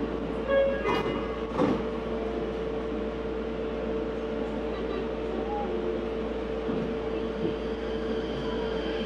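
Interior sound of a Meitetsu 4000 series electric train car: a steady hum over an even rumble. A few short tones sound about half a second in, and two knocks follow between one and two seconds in.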